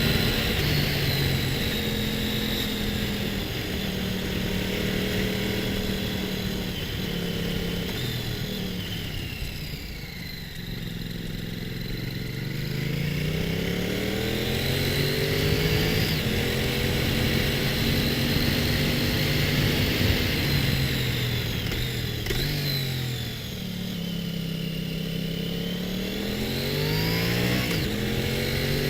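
Motorcycle engine on the move, its revs holding steady, dropping twice and climbing again, with rising revs near the end, over a steady rush of wind noise.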